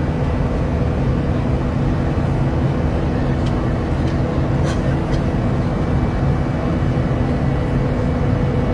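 Steady drone of an Airbus A380 airliner in flight, heard as constant cabin noise with a low engine hum, and a few faint clicks near the middle.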